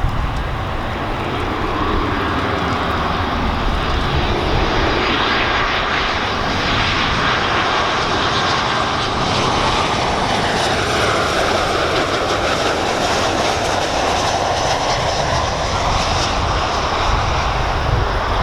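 Twin-engine narrowbody jet airliner on landing approach, its engine noise loud and steady, with a whine that dips and then rises in pitch about halfway through as the aircraft passes.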